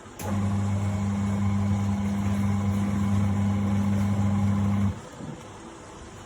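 Small mains-powered washing machine motor humming steadily with a low, even drone, starting with a click and cutting off abruptly about five seconds in.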